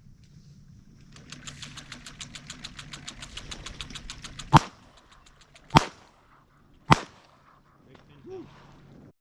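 Three shotgun shots about a second apart, each a sharp, loud report. Before them comes a rapid, even clicking rattle of about nine clicks a second that grows louder for a few seconds.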